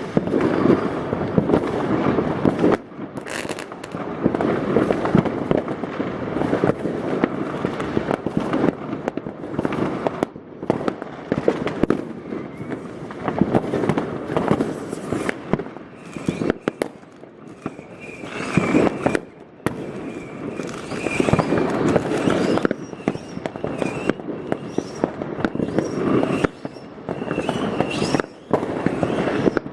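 New Year's Eve fireworks: a dense, unbroken barrage of bangs and crackling firecrackers from many directions at once.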